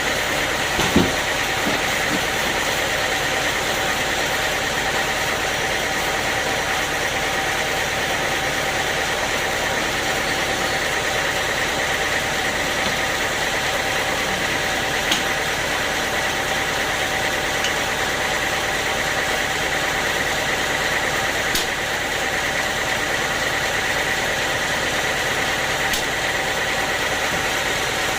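Sawmill machinery running steadily with a constant whine, and a single knock about a second in.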